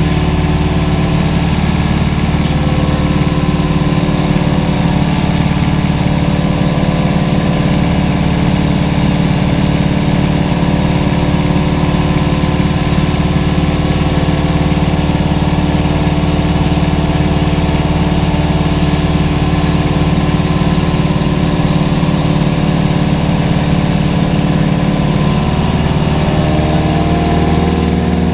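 Aircraft engine running steadily, its pitch shifting a little near the end.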